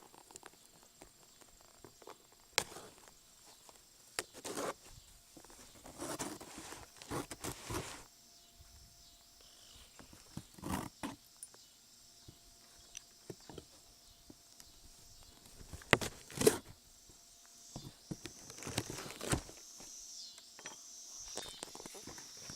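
Cardboard shipping box being opened with a screwdriver: scattered scrapes, knocks and rustles as packing tape is slit and the box is handled, with two sharp clicks about two thirds of the way in. Near the end, a longer, higher rustle of packing paper.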